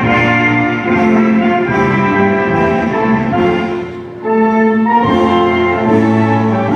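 Orchestral music with brass and strings playing sustained notes, the melody moving about every half second and dropping away briefly around four seconds in.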